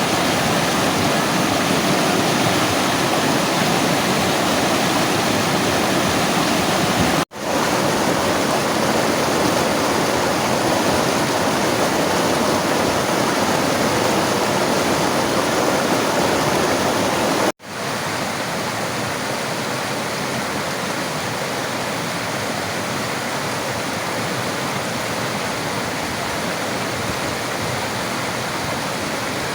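River water rushing steadily. It drops out for an instant twice, about seven seconds and about seventeen seconds in, and after the second break it comes back slightly quieter and thinner.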